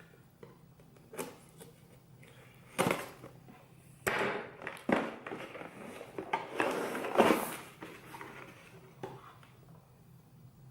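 A cardboard box being opened and handled: scattered knocks and scrapes, with a busier stretch of rustling and sliding from about four to seven and a half seconds in.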